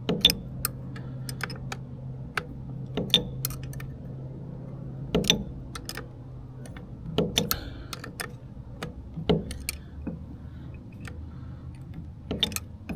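Steel wrenches clicking and clinking against the 10 mm shift-shaft nuts of an outboard's lower unit as the nuts are held and turned loose: irregular sharp metal clicks a second or two apart, over a low steady hum.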